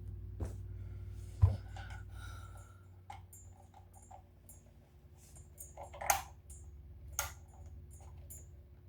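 Parts of an electric stove heater being handled during reassembly: scattered clicks and knocks, the loudest a sharp knock about one and a half seconds in. A low hum fades out over the first few seconds.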